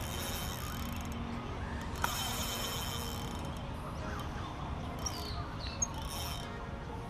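Birds chirping and calling, with a burst of high chattering about two seconds in and short whistled glides near the end, over a steady low rumble.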